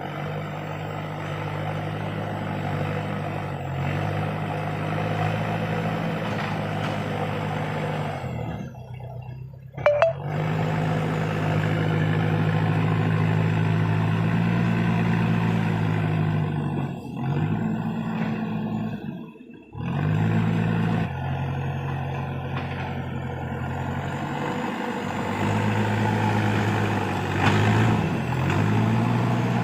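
Diesel engine of a Case heavy-equipment tractor running under work, its pitch stepping up and down as the load and throttle change. The sound breaks off briefly twice, about nine and twenty seconds in, with a sharp loud click just after the first break.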